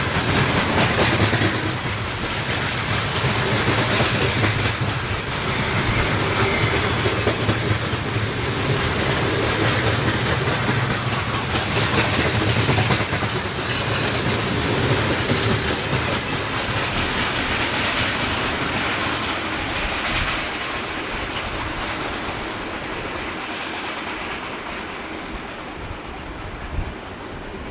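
Freight train wagons rolling past, wheels clattering over the rail joints, the noise slowly dying down near the end.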